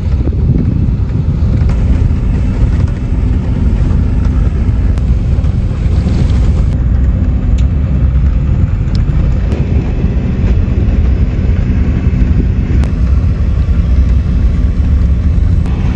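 A car driving steadily along a road: a constant low engine and road rumble with a faint steady drone.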